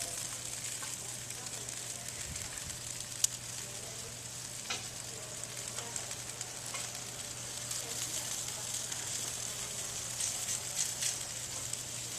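Meat sizzling on a barbecue grill: a steady hiss with scattered pops and crackles, one sharp pop about three seconds in.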